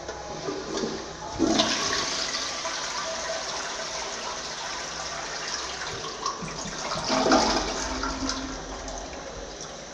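Toilet flushing: a rush of water starts about a second and a half in, swells again a few seconds later, then fades away.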